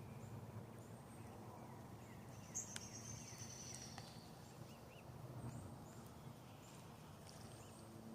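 Faint outdoor ambience with scattered high bird chirps and one brief high trill about three seconds in, over a low steady hum.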